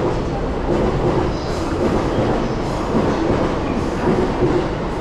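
Train moving on a station platform track, a steady rumble of wheels on rails.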